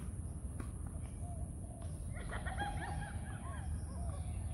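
Birds squawking in a dense chattering burst from about halfway through, over a steady low rumble. Two faint knocks come before it, in the first two seconds.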